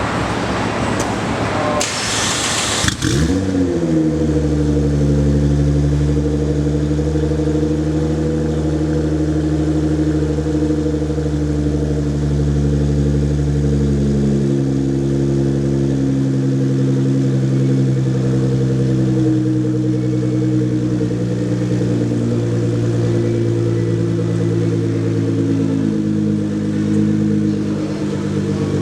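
The 2010 Nissan GT-R's twin-turbo V6, fitted with an AMS downpipe, AMS midpipe and Meisterschaft exhaust, fires up about three seconds in. Its brief flare drops in pitch and it settles into a steady idle through the aftermarket exhaust.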